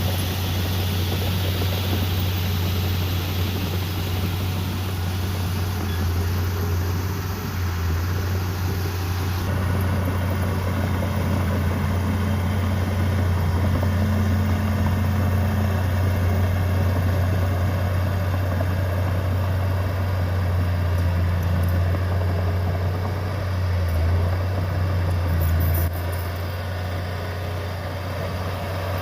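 Heavy diesel engine of earthmoving machinery running steadily with a deep, constant drone. The sound changes abruptly about a third of the way in and drops a little in level near the end.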